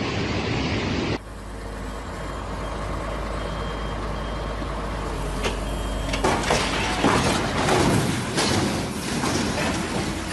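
A heavy vehicle's engine running with a low rumble, with a couple of short high beeps. From about six seconds in, a run of loud knocks and clatter.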